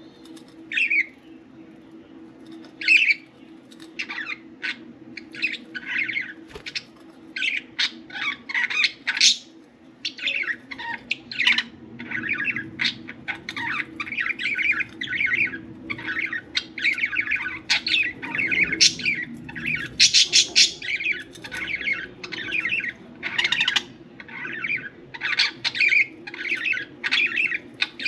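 Budgerigars chirping and squawking: short separate calls at first, then a busy, continuous warbling chatter from about twelve seconds in.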